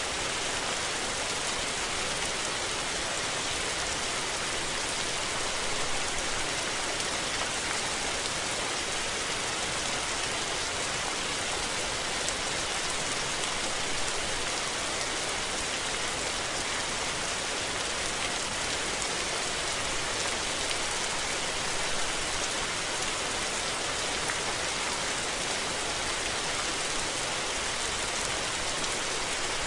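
Steady rain falling and pattering on surfaces, an even, dense hiss that holds level throughout.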